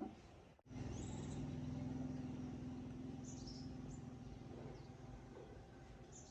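An engine running steadily with a low hum that starts suddenly about half a second in and slowly fades away. A few bird chirps come through above it.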